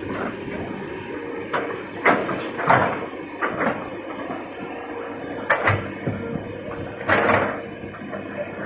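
Excavator working: a steady machine running, broken by several short, loud scraping or clanking bursts.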